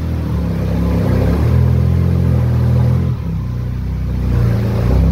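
1938 SS Jaguar 3½ Litre's straight-six engine running at low revs, its note changing pitch a few times as the car is driven out.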